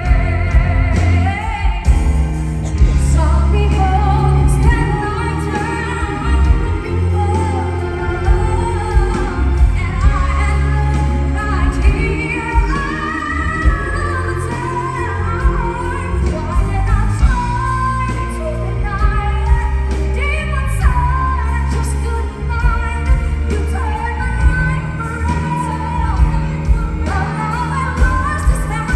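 Female vocalists singing a pop song with full band accompaniment and a steady, heavy bass line.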